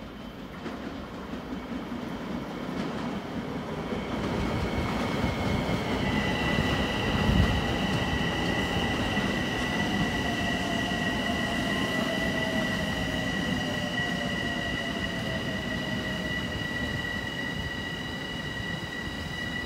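Long Island Rail Road M7 electric multiple-unit train rolling into the station: wheels rumbling on the rails, with a steady high-pitched squeal setting in about six seconds in and a slowly falling motor whine as the train slows. A single thud stands out about seven seconds in.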